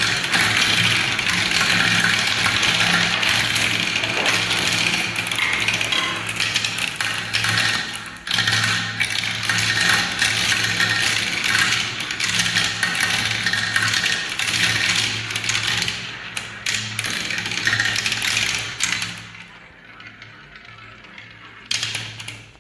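Many marbles rolling and clattering down plastic spiral marble-run tracks: a dense, continuous rattle of small clicks over a steady low rumble. It dies away to a few scattered clicks near the end.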